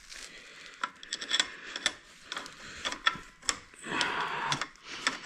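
Hand tools working on metal: a run of irregular sharp clicks and clinks, with ratchet-like clicking and short scraping noises.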